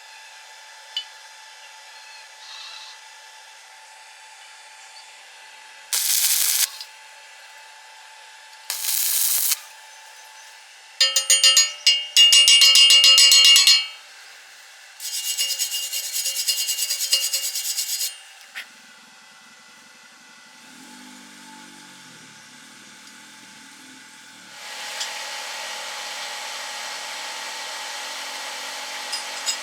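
Metalworking power-tool sounds: two brief loud bursts, then a longer run with a steady whine, another run of noise, and a steady hiss that sets in near the end.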